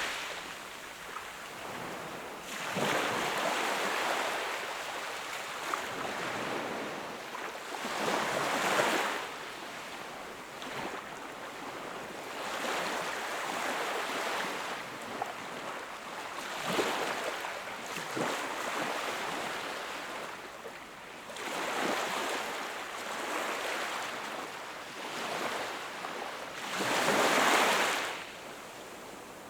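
Sea waves breaking and washing up on a shore, each wave swelling and fading about every four to five seconds, the loudest one near the end.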